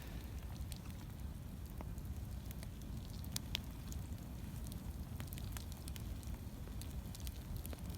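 Wood campfire, freshly built up, crackling with scattered sharp pops over a low steady rumble; one louder pop about three and a half seconds in.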